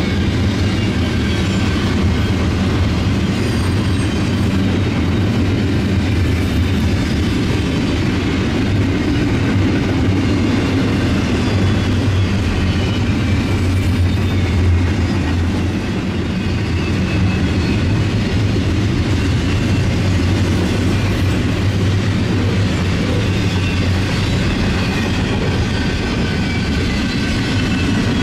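A Union Pacific freight train's cars rolling past close by: a loud, steady rumble of steel wheels on rail.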